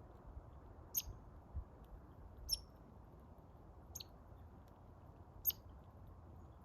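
American red squirrel giving short, sharp, high-pitched squeaks, four of them evenly spaced about a second and a half apart.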